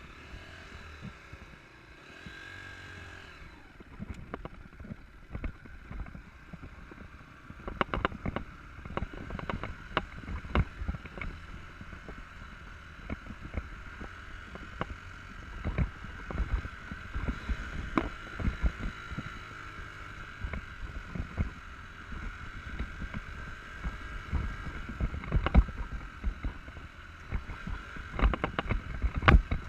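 Dirt bike engine running while the bike is ridden over rough ground, with frequent sharp knocks and thumps from the bumps.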